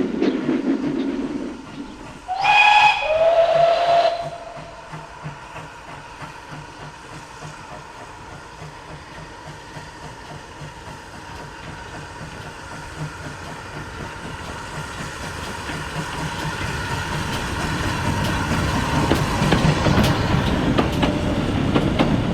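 GWR 14xx 0-4-2 tank engine's steam whistle, one blast about two seconds in that drops in pitch. The locomotive then works away with steam hissing and a steady low exhaust beat, growing louder toward the end.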